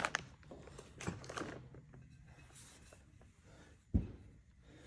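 Faint handling noises from the opened torque converter's parts being moved about, with a short scrape at the start and a single dull thump about four seconds in.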